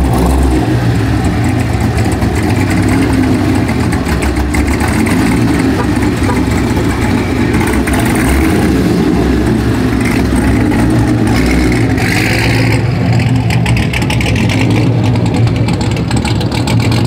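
Chevrolet Camaro SS V8 engine idling steadily, its exhaust note strong and low.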